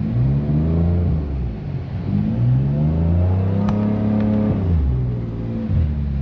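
BMW F80 M3's twin-turbo straight-six, with catless downpipes and an open valved exhaust, revving up twice under throttle: a short climb at the start, then a longer climb that drops back about three-quarters of the way through before the engine settles into a steady drone. A brief click sounds in the middle of the second climb.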